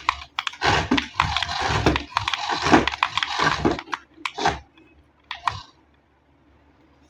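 Toy packaging being handled and opened: plastic and cardboard crinkling and tearing, with sharp clicks and crackles for about four seconds, then a couple of short rustles before it goes quiet.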